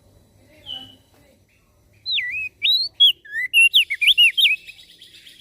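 Crested dark-eye (opior jambul) singing. A faint short note comes first, then from about two seconds in a quick, loud run of whistled notes swooping up and down, ending shortly before the end.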